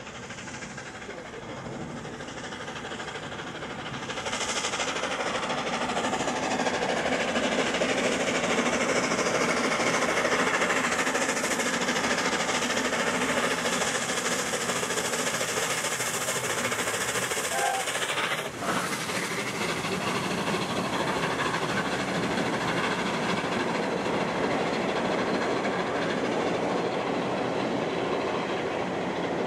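A train running past on the rails, the sound of its wheels on the track building over the first few seconds and then holding steady.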